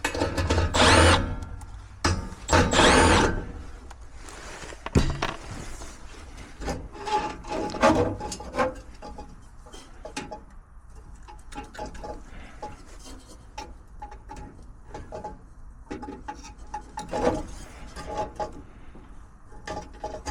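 Thermostat wire scraping and poking in a gas furnace's burner ports, many small irregular scrapes and clicks, to clear ports suspected of clogging that kept the flame from lighting. Two louder bursts of noise come in the first four seconds.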